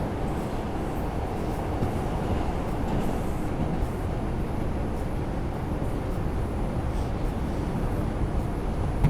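R142 subway train running between stations, a steady noise of wheels and motors on the rails.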